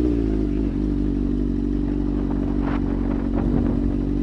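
Motorcycle engine running steadily close to the microphone, coming in suddenly just before and holding an even note throughout.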